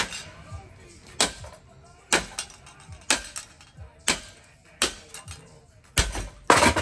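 A ceiling fan being smashed: repeated sharp, heavy blows about once a second, with a longer, louder crash near the end.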